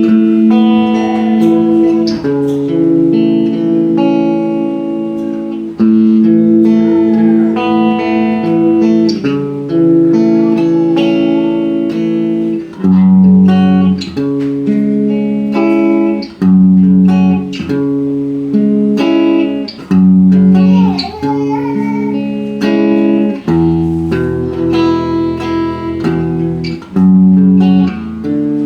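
Electric guitar played through a freshly repaired Marshall MG30DFX amplifier, with held chords changing every second or two and picked notes over them. The amp is producing full, loud sound.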